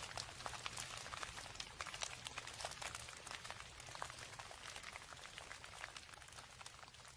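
Rain falling, heard as a dense patter of many separate drop ticks over a soft hiss, easing slowly quieter over the last few seconds.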